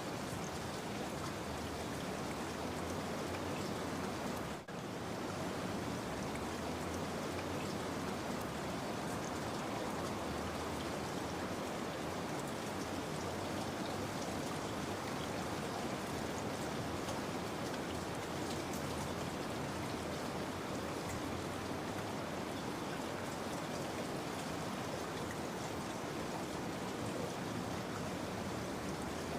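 Steady rain falling, a dense even hiss of drops, with a brief dip in loudness about four and a half seconds in.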